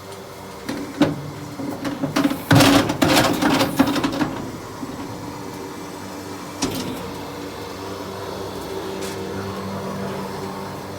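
A machine running steadily, with a burst of loud clattering and knocks between about one and four seconds in and a few single clicks later.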